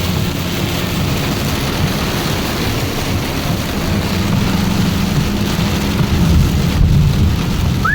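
Truck engine running as it drives through flooded road in a heavy thunderstorm, with rain beating on the cab, a steady loud wash of water and rain noise over a low engine drone, heard from inside the cab.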